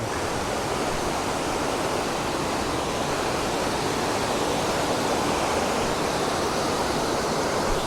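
The Squamish River flowing: a steady rush of water.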